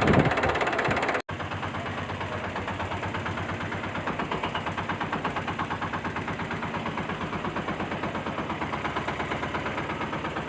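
An engine chugging steadily with a rapid, even beat, after a louder clattering sound cuts off abruptly about a second in.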